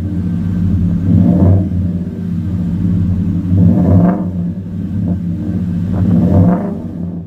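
A 2016 Ford F-150's true dual exhaust, through a Flowmaster crossflow muffler and stainless tips, running at idle and revved up three times.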